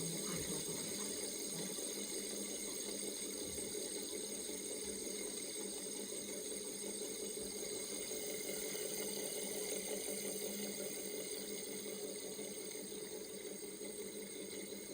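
Steady whirring hum of an air conditioner with a fidget spinner spinning on it, easing off slightly toward the end.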